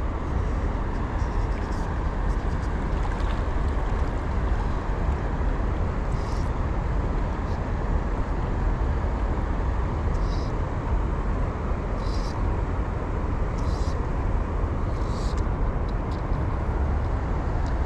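Steady rushing of river water with a low wind rumble on the microphone, and a few short, faint high hisses now and then.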